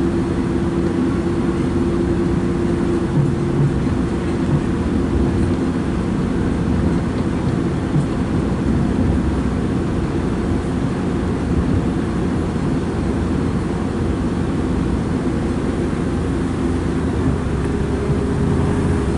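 Running noise inside a diesel multiple unit passenger train at speed: a steady rumble of wheels on rails and the underfloor engine. A steady hum fades out a few seconds in, and another comes in near the end.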